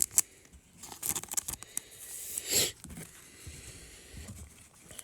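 Trading cards and their packaging handled by hand: a couple of sharp clicks at the start, short scrapes and rustles, and a longer swish about two and a half seconds in.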